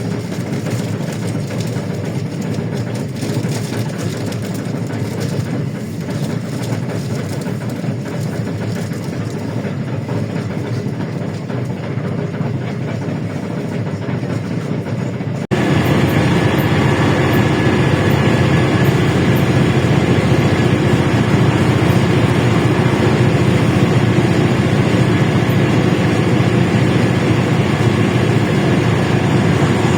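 LiAZ-677M bus's V8 petrol engine running while the bus drives, with steady road and body rattle. About halfway through, the sound cuts abruptly to a louder stretch with a steadier engine hum.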